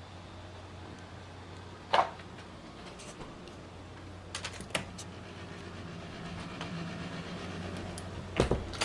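Scattered sharp clicks and knocks over a steady low hum of room noise: one loud knock about two seconds in, a quick few clicks around the middle, and a loud double knock near the end.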